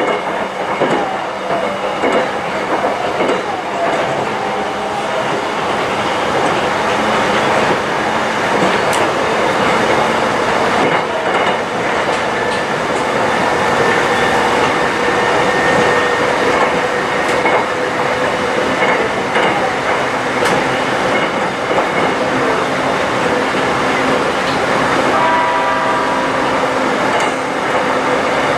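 Passenger train running, heard from inside the carriage: a steady rumble of wheels on rail, with a faint whine for a while mid-way and a brief high ringing, like wheel squeal, near the end.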